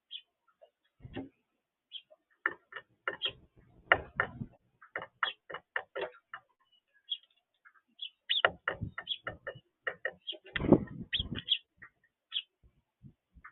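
Birds at a feeder making irregular tapping and knocking, in quick clusters, with a few short high chirps between.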